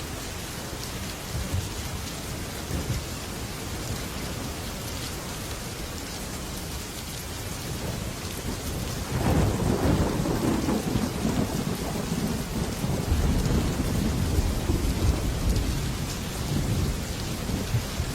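Heavy rain falling steadily on a metal roof. About halfway through, a long low rumble of thunder builds and rolls on for several seconds.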